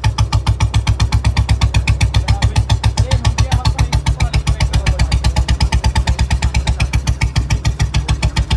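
Old-model Royal Enfield Bullet 350 Standard's single-cylinder four-stroke engine thumping steadily through its stock exhaust, even beats about eight or nine a second, pulling at low revs in fourth gear.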